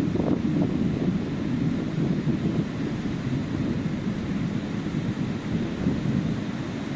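Ocean surf washing on a beach, a steady low rush with wind buffeting the microphone.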